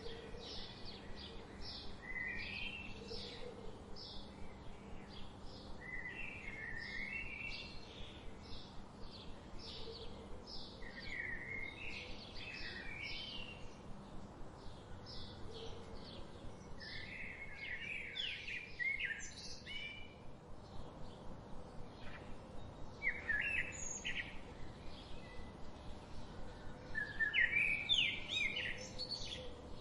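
Wild birds singing: one bird repeats short high chirps about two or three a second, while another sings short warbled phrases every few seconds, the loudest near the end.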